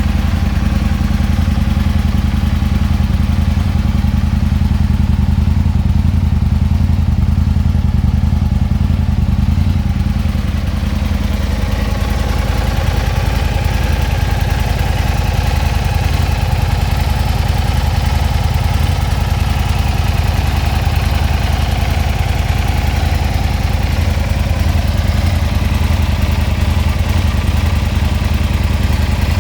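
Aprilia Tuono 1000 R's 1000cc V-twin engine idling steadily, with an even low beat and no revving.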